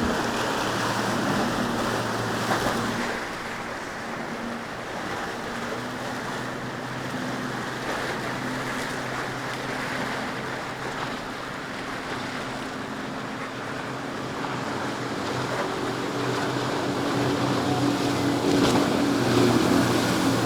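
Boat engines droning over wind and surf, a steady low hum that grows louder over the last few seconds as a boat comes closer.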